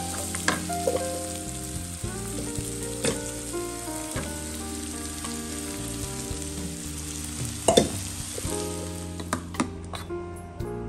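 Chopped vegetables sizzling as they fry in a nonstick pan, stirred with a wooden spatula that scrapes and knocks against the pan, with one louder knock about three quarters of the way through. A background melody plays along.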